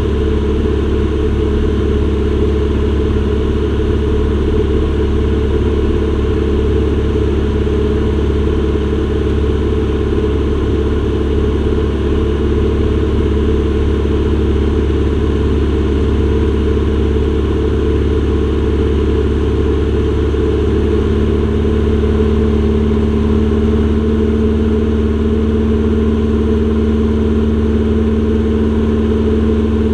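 Aircraft engines droning steadily as heard inside the passenger cabin during the approach to land. About twenty seconds in, a new steady low hum joins the drone.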